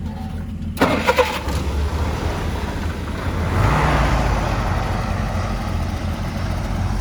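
Old Jeep engine running with a steady low rumble, revving up about three and a half seconds in. A few sharp metal clanks about a second in.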